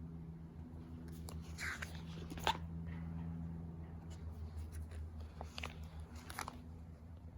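Paper rustling and handling noises as photos are shuffled, in two short spells, with a sharp click about two and a half seconds in, over a steady low hum.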